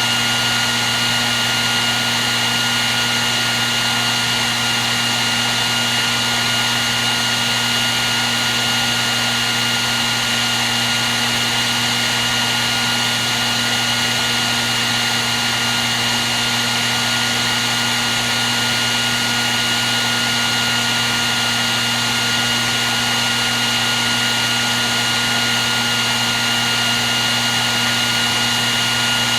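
Hair dryer running at a constant setting: a steady rush of air with a high-pitched motor whine and a low hum that never change.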